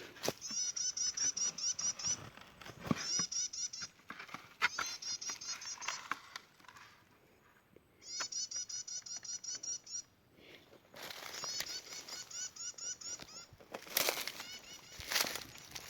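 A small bird chirping rapidly in repeated bouts of quick high notes, each bout lasting one to two seconds, with pauses between. Scattered knocks and rustles from handling are heard alongside, and become the loudest sound near the end.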